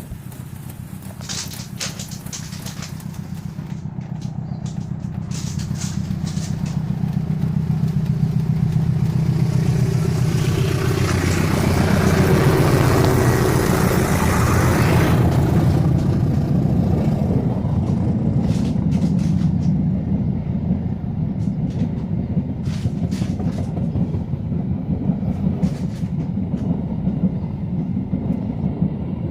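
Diesel locomotive of the KA Sawunggalih passenger train approaching with a steady engine hum that grows louder, passing in a loud rush about 10 to 16 seconds in, then its coaches rolling by with a steady rumble and scattered wheel clicks on the rail joints.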